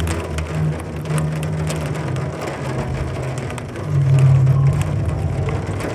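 Rain pattering, heard as a dense scatter of sharp drop clicks, over a steady low hum that swells about four seconds in.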